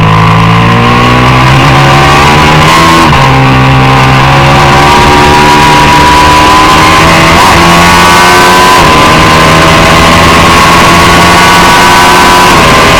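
Loud racing motorcycle engine under hard acceleration, its pitch climbing steadily over several seconds with a few sudden steps as it is shifted.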